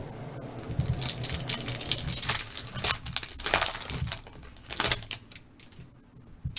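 Foil trading-card pack wrapper crinkling and rustling as it is torn open and the cards are handled, in a quick irregular run of crackles.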